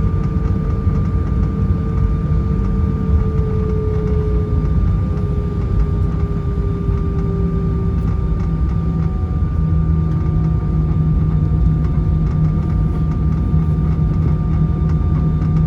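Cabin noise of an Airbus A320-214 taxiing after landing: its CFM56 engines running at idle, a steady rumble with a thin, steady whine above it. A few seconds in, a second tone slowly slides down in pitch as the engines ease back.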